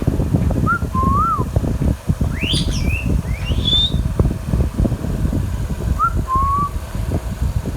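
Indian ringneck parrot whistling: two short soft whistles, then two sharper rising calls, then two soft whistles again, over a loud low rumble.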